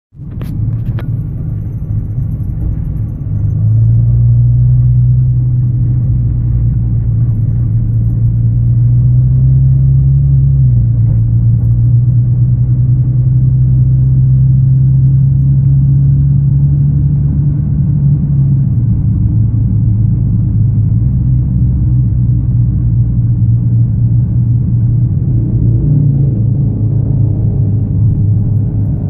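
Nissan GT-R R35's twin-turbo V6 running with a steady low drone that steps up a few seconds in and drops back twice later. Over it comes a faint intermittent metallic chirp, like a bird or a hamster wheel, from under the rear of the car; the owner has not found its cause and says it gets worse over bumps and between 2,000 and 4,000 rpm.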